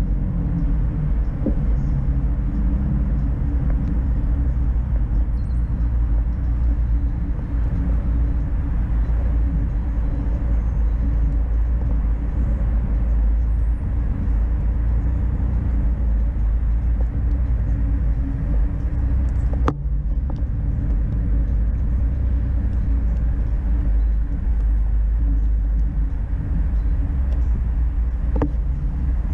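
A vehicle running steadily while riding along, a constant low rumble of engine and wind on the camera, with a couple of short clicks about two-thirds of the way through and near the end.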